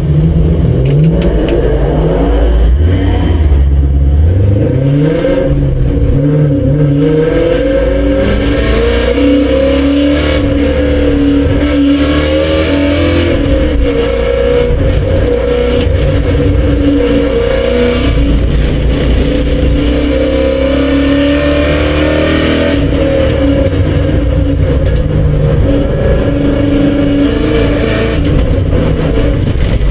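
BMW M5 E39's 4.9-litre S62 V8 driven hard, its revs climbing and dropping repeatedly through the gears, then running at more even high revs.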